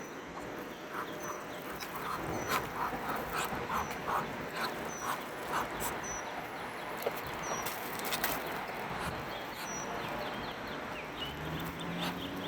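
Muscovy ducks making soft, breathy calls while feeding, in a quick run of short sounds about two to three a second, with a high chirp repeating in the background.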